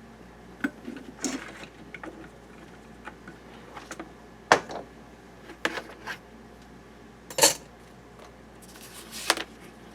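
Scattered metallic clinks and knocks from metal parts being handled on a workbench, with two louder clanks about four and a half and seven and a half seconds in.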